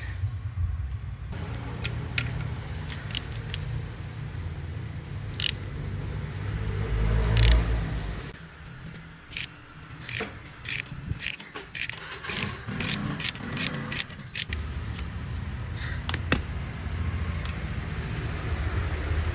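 Metal tools and parts clinking, clicking and scraping during motorcycle restoration work, over a steady low hum, with a louder low swell midway.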